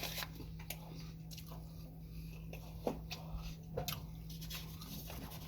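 Quiet close-up chewing of a soft fried chicken sandwich, with a few small mouth clicks, over a steady low hum.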